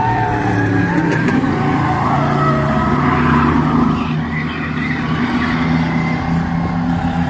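Several bomber-class stock cars racing around an oval track, their engines running hard together at shifting pitches as the cars go through the corners and down the straights.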